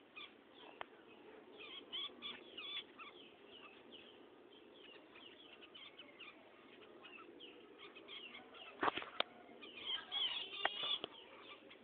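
Small birds chirping in many short, high calls, with a few sharp clicks about three-quarters of the way in that are the loudest sounds.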